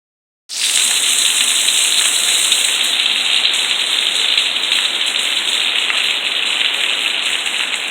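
Heavy hurricane rain pouring down in a steady, dense hiss that starts about half a second in.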